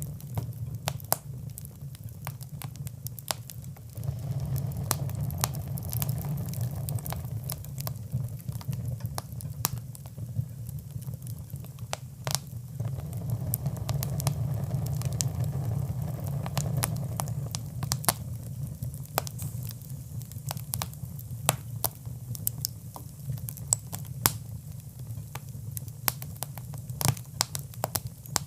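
Fire in a hearth crackling, with many sharp pops and snaps at irregular intervals over a steady low rumble.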